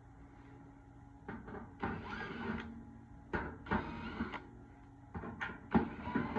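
Cordless drill backing screws out of a thin metal back panel in short whirring bursts, with clicks and light metallic knocks between them.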